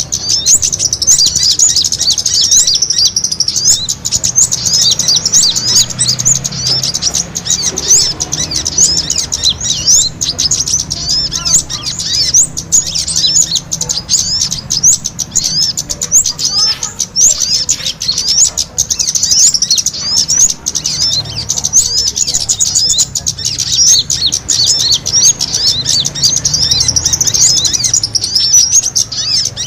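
Dense, unbroken chatter of many small birds giving rapid, high-pitched chirps, a lure recording of small birds calling agitatedly as if fighting, used to draw wild birds in.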